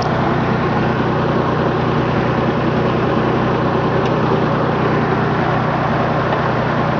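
1984 Ford Ranger's 2.8-litre V6 idling steadily.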